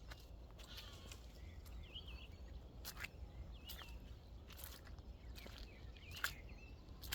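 Faint outdoor ambience: a steady low rumble, scattered sharp clicks and crackles, and a few short bird chirps.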